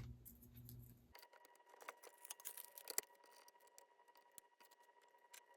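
Near silence: faint room tone with a low hum that stops about a second in, then a few light clicks.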